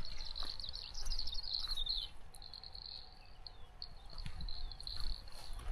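Birds chirping and singing outdoors over a steady high-pitched trill, with a burst of quick chirps about a second in. Low wind rumble and a few soft footfalls on the path.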